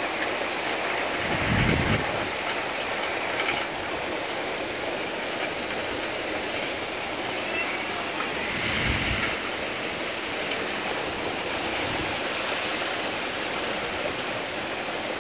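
Torrential downpour: heavy rain falling steadily. Two brief low rumbles break through, one about a second and a half in and one about halfway through.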